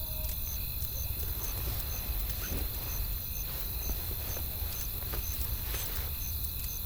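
Wood fire crackling with irregular sharp pops and snaps over a steady low wind rumble. A faint high chirp repeats about twice a second behind it.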